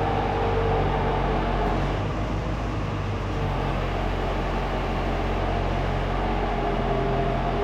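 An engine running steadily at an even speed, a constant low drone with a higher steady hum above it.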